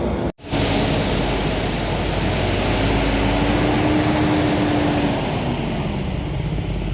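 Heavy truck engine running on the climb, its note sagging slightly near the end, with a brief break in the sound just after the start.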